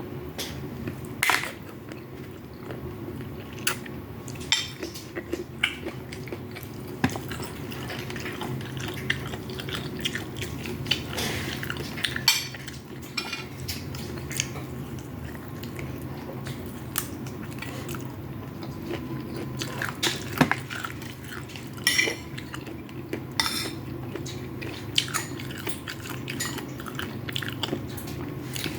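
Cutlery clinking and scraping on a plate in scattered sharp taps, with chewing of fried rice, over a steady low hum.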